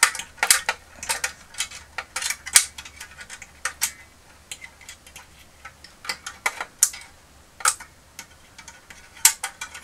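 Irregular small clicks and taps of metal pliers and a wire spring against the hard plastic of a toy's missile launcher as the spring is worked onto a cross-piece inside it. The taps come in scattered clusters, sparser in the middle.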